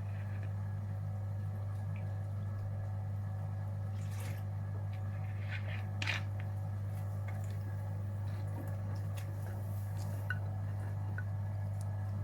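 Gorenje UseLogic 65165 washing machine in its wash phase: the drum turns and wet laundry and water slosh and splash in short swishes over a steady low hum.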